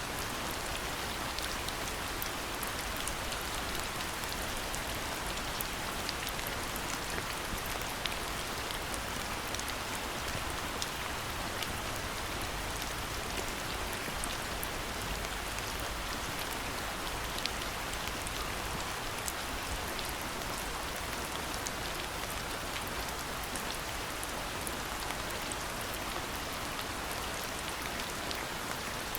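Steady rainfall, an even hiss with many scattered sharp ticks of single drops landing.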